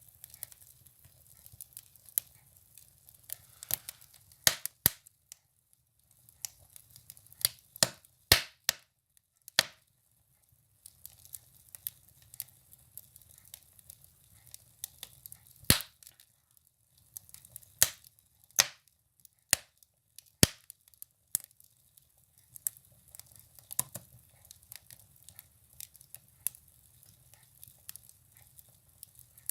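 Firewood burning in a wood stove, crackling with irregular sharp pops and snaps, a few much louder than the rest, over a faint low rumble.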